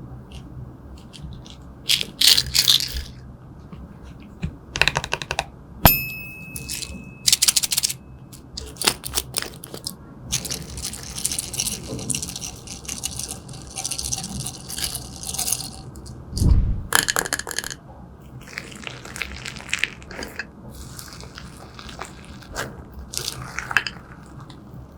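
Clear slime with makeup and glitter being mixed and pressed by hand, giving irregular sticky crackles, clicks and crunches. There is a short ringing clink about six seconds in.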